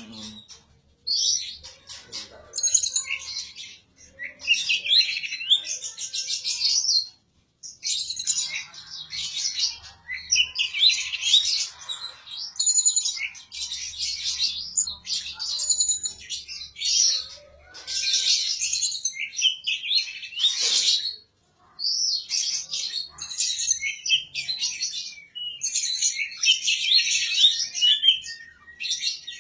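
Caged songbird singing loud, rapid, high-pitched warbling phrases, each lasting several seconds with short breaks between them.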